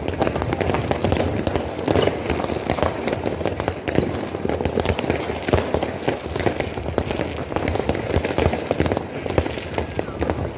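Fireworks and firecrackers going off in a dense, continuous barrage of overlapping bangs and crackles, with no break.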